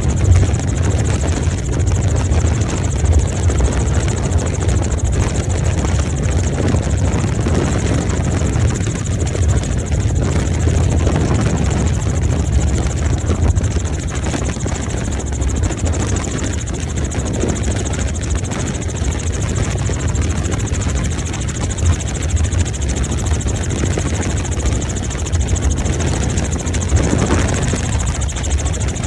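Helicopter in steady flight, heard from aboard: a continuous low rotor drone with engine hiss, unchanging in level.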